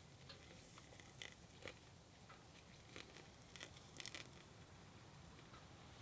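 Near silence with faint, scattered small clicks and crunches over a low hiss.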